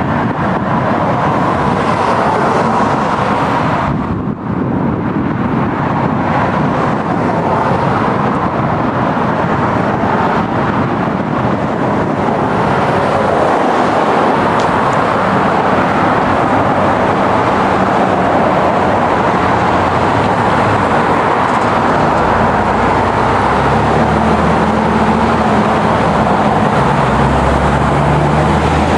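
Steady rushing vehicle noise, with a low engine hum coming in about halfway and growing stronger near the end.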